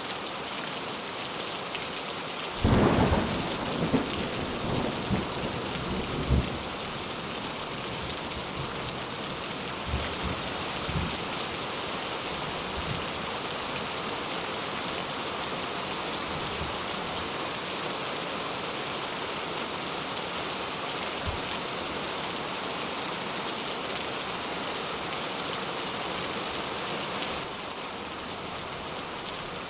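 Steady rainfall with a clap of thunder about three seconds in that rumbles for several seconds. Fainter rolls of thunder follow later.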